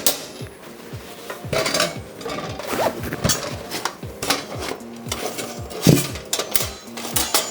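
Metal pieces clinking and clattering against each other as they are handled, in many irregular sharp knocks, over background music with a steady beat.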